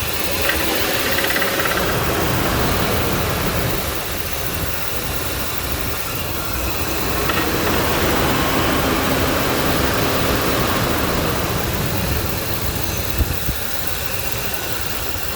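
Ford 5.4L Triton V8 running steadily at idle with the clicking noise in the engine that the owner is asking about.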